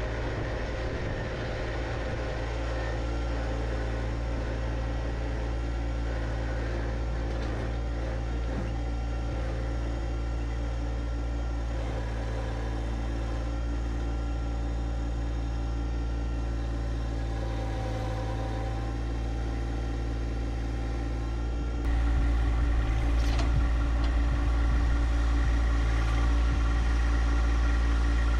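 John Deere 1025R compact tractor's diesel engine running steadily, getting louder about three-quarters of the way through.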